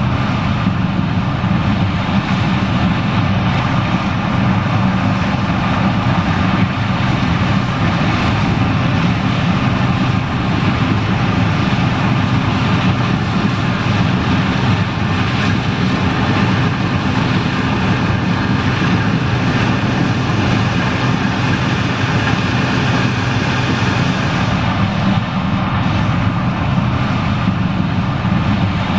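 John Deere 9870STS combine running steadily while harvesting corn: a loud, even engine drone with the whir of its machinery.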